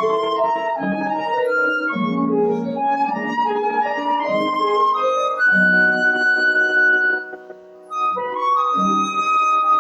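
A woodwind plays a slow lyrical melody over piano accompaniment. It holds one long note, breaks off for about a second, then comes back in.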